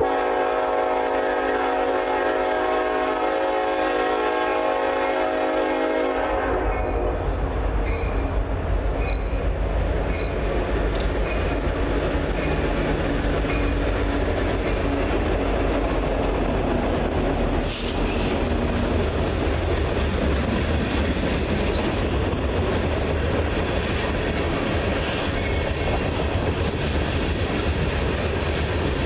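Train locomotive's air horn sounding one long chord for about six seconds. The horn then stops and the train runs by with a steady rumble and clatter of wheels on the rails. There is one sharp clank about 18 seconds in.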